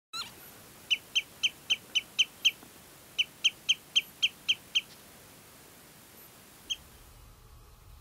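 A bird calling: a run of about seven short, sharp, slightly falling notes at about four a second, then after a short pause a second run of seven, and one single note near the end.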